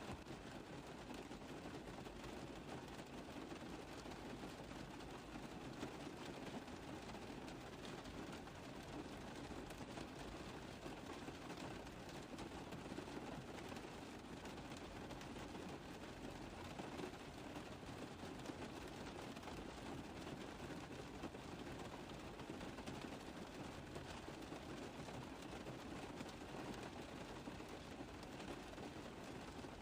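Rain tapping on a car roof: a steady, dense tapping of many drops that does not let up.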